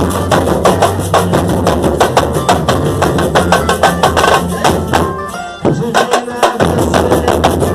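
Live percussion-driven music from a traditional carnival bloco: dense drumming and rattling percussion over a steady bass, with a melody line on top. About five seconds in, the drums break off briefly, then the full band comes back in about a second and a half later.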